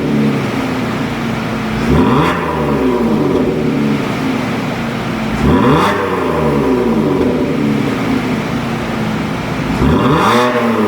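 Hyundai Palisade 3.8 V6 gasoline engine heard through an aftermarket axle-back valved exhaust, revved three times, about four seconds apart: each rev climbs quickly and falls back slowly toward idle.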